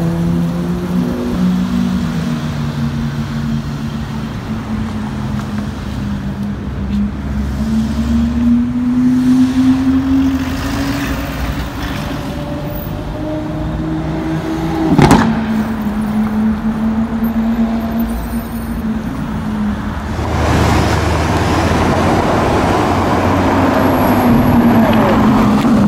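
Car engines running in street traffic, their pitch climbing slowly and dropping at gear changes, with one sharp crack about 15 seconds in. Near the end a Lamborghini Aventador's V12 comes up loud and passes by, its pitch falling.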